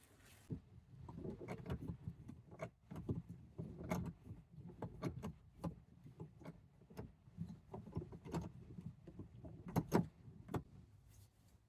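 Irregular light clicks, knocks and rustling of small things being handled, with a couple of louder knocks about four and ten seconds in.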